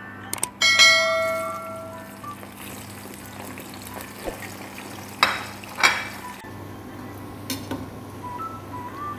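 Cubes of eggplant sizzling as they are tipped into hot oil in a frying pan, a steady hiss throughout, with two sharp knocks of the plate against the pan a little after halfway. Near the start a click and a bright ringing chime, the loudest sound, come from the animated subscribe-button sound effect.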